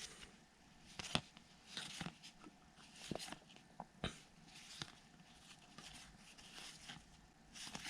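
Baseball trading cards being handled and flipped through: faint sliding rustles with scattered light clicks as cards snap against each other.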